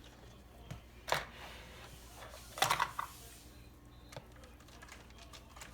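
A few scattered clicks and knocks of objects being handled, the loudest a short clatter about two and a half seconds in.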